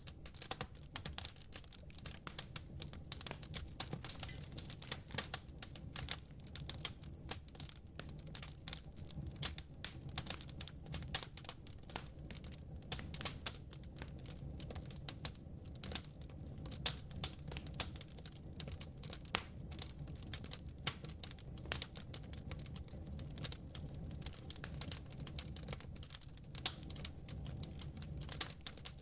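Wood fire in a fireplace crackling, with a dense run of irregular sharp pops and snaps. Underneath sits a steady low rumble.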